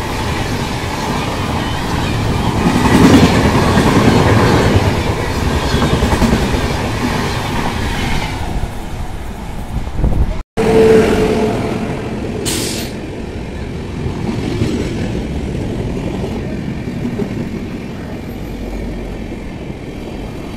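Indian Railways express train coaches running through a station, a steady loud rumble and clatter of wheels on rail, loudest a few seconds in. A sudden cut about halfway through, after which another passing train's rumble goes on.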